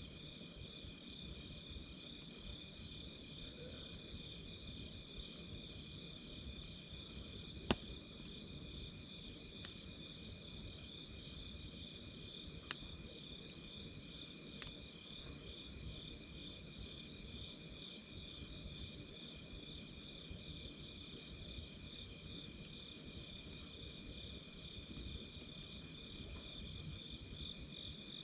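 Wood fire crackling with a low steady rustle and a few sharp pops, the loudest about 8 seconds in, under insects chirping steadily and rapidly.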